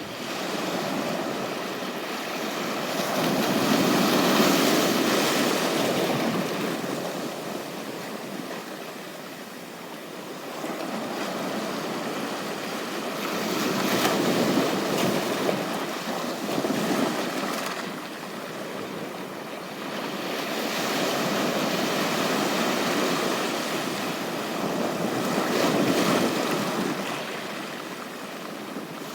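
Ocean surf washing onto a beach, swelling and ebbing every few seconds.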